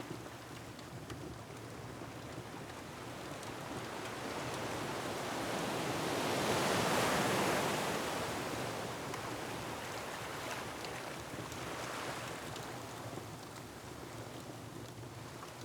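Ocean waves surging against a rocky shore: one big wave builds and peaks about seven seconds in, a smaller one follows around twelve seconds, over a steady rumble of surf. Faint crackles of a wood fire tick through it.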